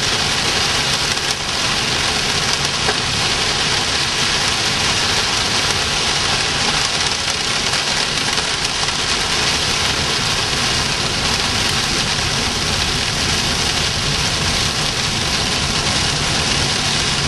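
Small hail mixed with rain pelting the vehicle's roof and windshield, heard from inside the cabin as a steady dense patter, with the vehicle's engine running underneath.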